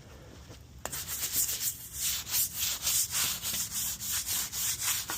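A hand tool scrubbing dried concrete residue in quick back-and-forth strokes, about three a second, starting about a second in. It is a test of whether a concrete-removing chemical has loosened the crust.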